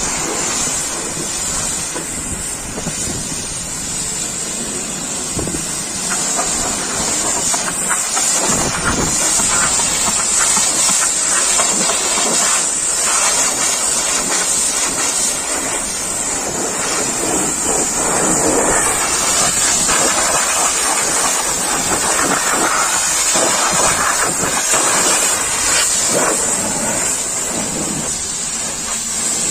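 Pressure washer spraying water in a steady loud hiss, with a constant high-pitched whine above it.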